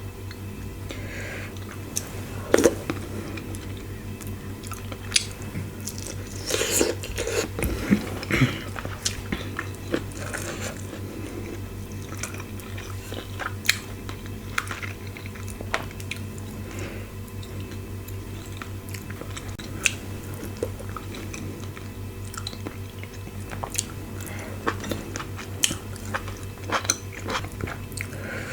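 Close-miked eating sounds: chewing, biting and wet mouth clicks and smacks of a person eating fufu with meat and soup, a little louder about a quarter of the way in, over a steady low hum.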